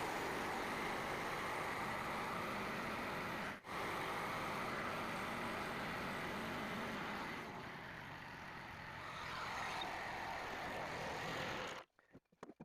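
Frontier OS27 bandsaw sawmill running steadily, its engine and blade making an even wash of noise. It drops out for an instant a few seconds in and cuts off abruptly near the end.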